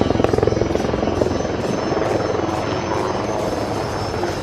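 HAL Prachand light combat helicopter flying its display: a steady mix of rotor and twin turboshaft engine noise that eases a little in the first second.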